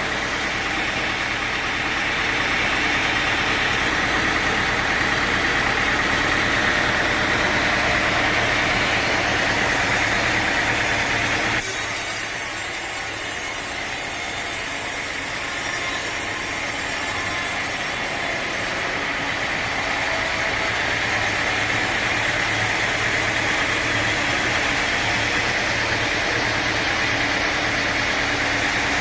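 Sawmill machinery running steadily. About twelve seconds in the sound shifts abruptly: the low end drops away and a high hiss runs for several seconds before the earlier sound returns.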